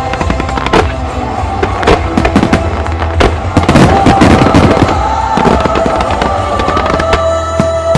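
Starmine fireworks bursting and crackling over a music soundtrack, with a dense volley of bursts and crackle from about three and a half to five seconds in.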